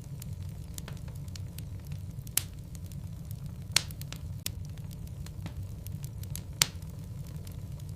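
Wood fire of burning logs in a fireplace: a steady low rumble of the flames with scattered crackles, and three louder pops about two and a half, four and six and a half seconds in.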